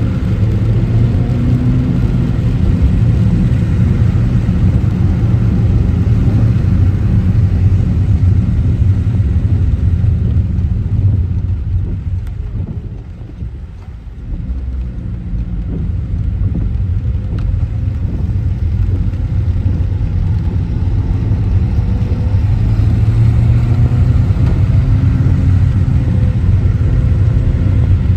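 Car driving: steady engine and road rumble that drops away about halfway through as the car slows, then builds again with the engine pitch rising as it accelerates near the end.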